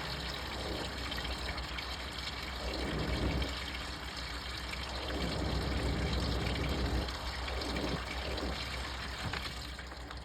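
Washing machine with water running and sloshing in the drum during the wash, swelling and easing every second or two.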